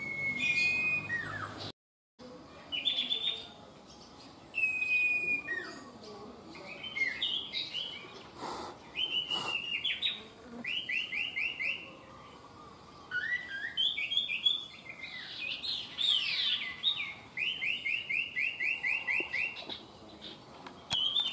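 Common iora singing: clear whistled notes and quick runs of repeated chirps, several notes a second, coming in phrases with short pauses between them. A brief dropout of all sound falls about two seconds in.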